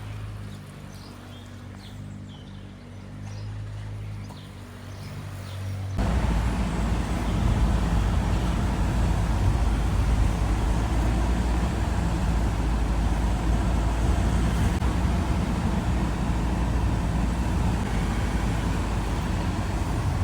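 A vehicle engine running with a steady low hum. About six seconds in, a loud low rumble of wind buffeting the microphone cuts in and carries on.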